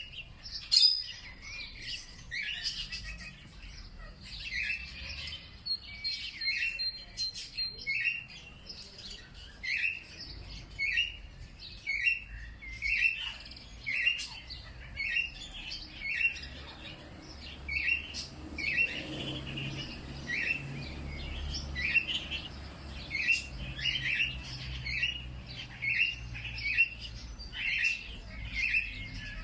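Birds chirping: short chirps repeated about once a second, sometimes in quick pairs, with a brief thin whistle a few seconds in.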